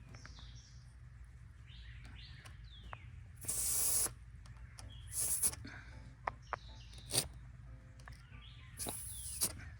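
Air hissing at a truck tire's valve stem in three short bursts, with a few light clicks between them.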